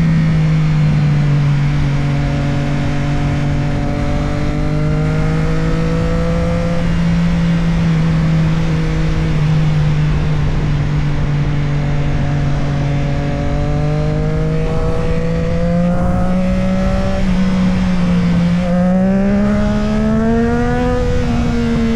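Motorcycle engine running at a steady cruising pitch under a steady rush of wind and road noise, dipping briefly near the end and then rising as it accelerates.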